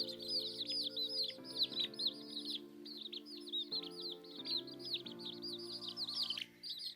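Many chicks peeping, a dense run of short falling chirps several a second, with a brief break near the middle and again near the end, over background music of held chords.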